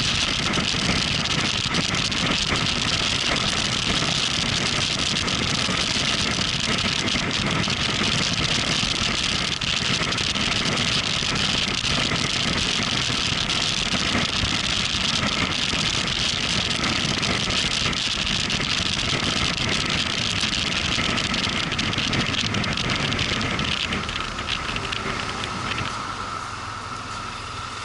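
Motorcycle riding on the road: steady engine and wind noise, which grows quieter near the end.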